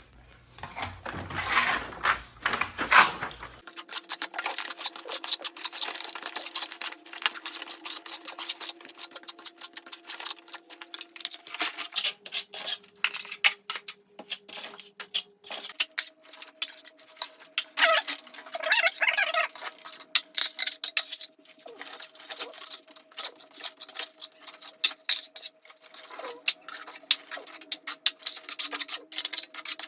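Steel plastering trowel scraping and clicking as setting-type joint compound (hot mud) is loaded and spread over low spots in an old plaster wall, a quick, uneven run of scrapes and taps. Faint steady held tones sit behind it from about four seconds in.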